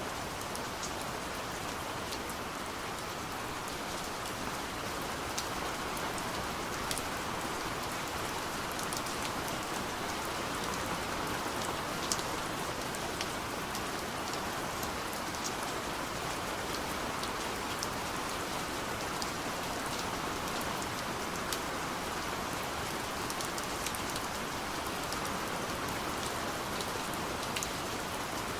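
Gentle rain falling steadily on a window, a constant hiss with scattered individual drops ticking on the glass.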